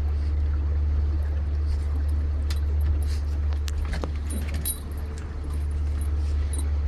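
Steady low rumble of a shanty boat under way on the water, with scattered light clicks and jingles around the middle.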